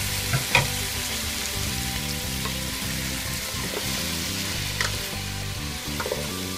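Pork, garlic, onion and tomato sizzling in a pot as cubed squash is stirred in with a spatula, with a steady frying hiss and a few sharp clicks of the spatula against the pot.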